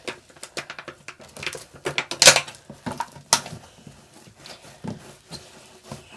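Over-activated cloud slime being stirred and worked by hand, giving a run of sticky clicks and crackles, with two louder ones about two and three seconds in.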